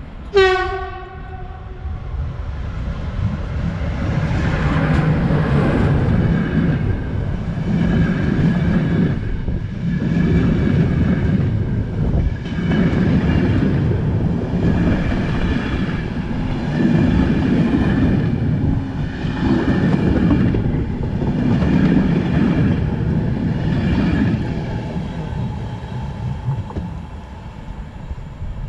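One short horn blast from an approaching passenger train's locomotive, then the train passing close at speed. The wheels clatter on the rails in a swell that repeats every two to three seconds as coach after coach goes by, fading near the end.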